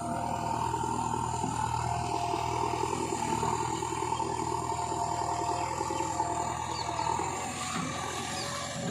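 Heavy diesel machinery engine running steadily under load, a low hum with a steady high whine over it.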